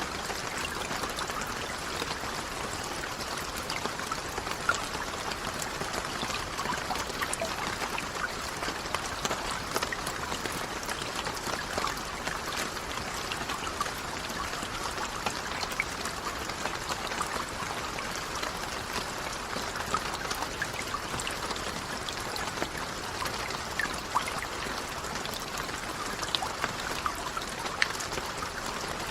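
Steady rain falling: an even hiss with many scattered individual drops ticking through it and a few louder drops now and then.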